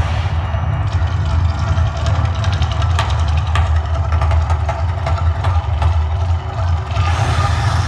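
Volcano show soundtrack over loudspeakers: a deep, steady rumble under music, with scattered sharp clicks.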